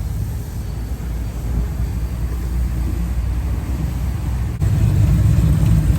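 Car engines running with a steady low rumble, which gets louder about two-thirds of the way through.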